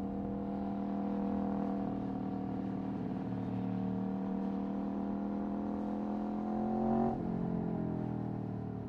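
Aprilia Tuono V4 1100's V4 engine through an Akrapovic Racing exhaust, running at a steady pitch under light throttle. It rises slightly and then drops sharply in pitch about seven seconds in before carrying on lower.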